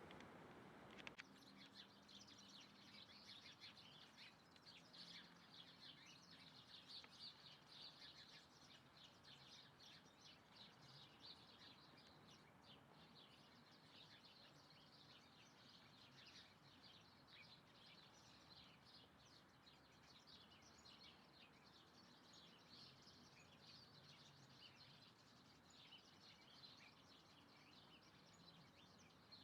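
Faint birdsong: many short, high chirps from several small birds, following each other rapidly and steadily.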